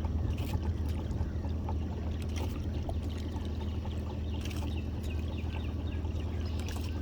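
Boat motor running steadily at low speed, with water trickling and splashing and a few sharp knocks about every two seconds.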